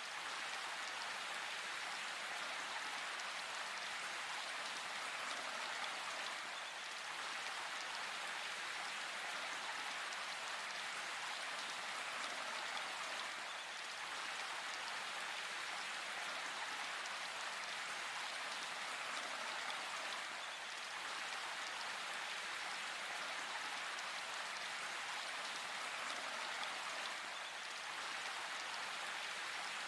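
Steady rain falling, an even hiss of many drops that neither builds nor eases.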